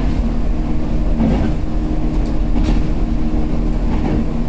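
JR 105-series electric train running, heard from inside the passenger car: a steady low rumble of wheels on rail with a constant motor hum, and a few faint brief higher squeaks.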